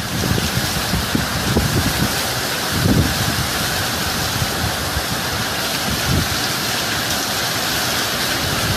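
Hurricane wind and driving rain: a steady hiss, with gusts buffeting the microphone now and then.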